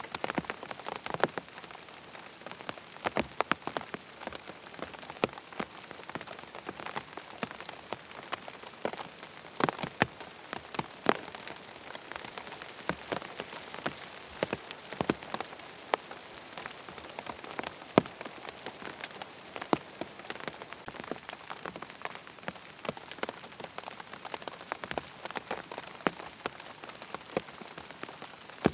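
Steady rain falling, a continuous hiss with many irregular sharp drips and taps of drops striking a hard surface.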